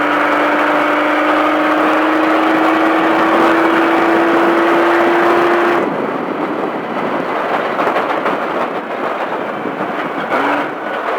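Baja race truck engine under throttle, its note climbing slowly for about six seconds. It drops away abruptly as the throttle is lifted, leaving a rough rushing noise as the truck coasts. The engine note comes back briefly near the end.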